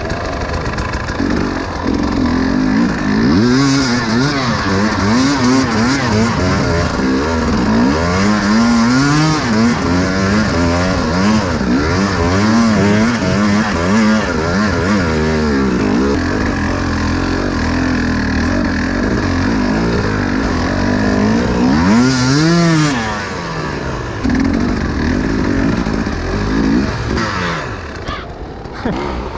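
Enduro motorcycle engine being ridden hard, revving up and down over and over as the throttle is worked. It steadies for a few seconds in the middle, gives one sharp rev about three quarters of the way through, and drops quieter near the end.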